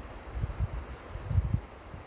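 Wind buffeting the microphone in uneven low gusts, strongest about halfway through, over a steady rush of flowing river water.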